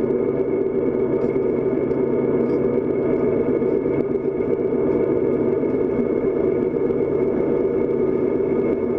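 Running noise of a moving train heard from its leading locomotive: a steady, even rumble with a faint high whine held above it.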